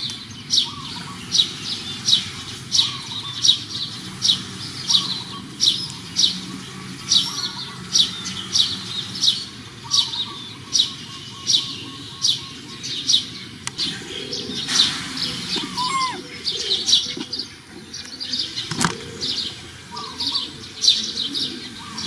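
A bird repeating a short, sharp chirp about three times every two seconds, with a brief rustle about fifteen seconds in.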